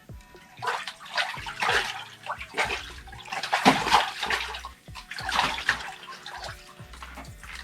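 Water splashing and sloshing in an ice-fishing hole as a hooked fish is pulled up through it, in a run of uneven splashes that ease off near the end.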